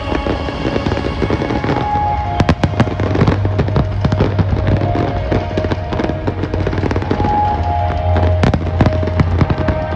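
Many firework shells bursting in quick succession with sharp bangs and crackling, over music playing on loudspeakers. There is a cluster of loud bangs about two and a half seconds in and another strong bang near the end.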